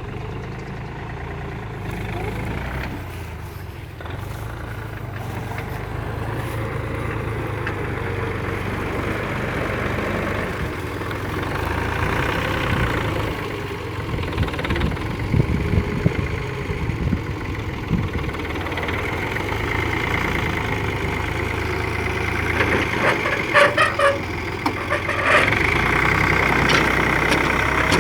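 Hinomoto N279 compact tractor's diesel engine running steadily, with sharp knocks and rattles over it in the second half as it gets somewhat louder.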